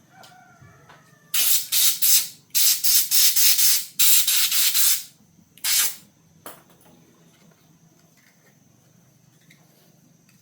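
Hissing spray from a pressurized jet in short repeated bursts, about a dozen pulses over some four seconds, then one last short burst.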